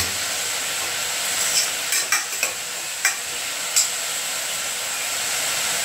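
Onion, tomato and ginger-garlic paste sizzling steadily in hot oil in a steel pot, being cooked down until the oil separates. A metal spoon clinks sharply against the steel pans a few times, between about one and a half and four seconds in.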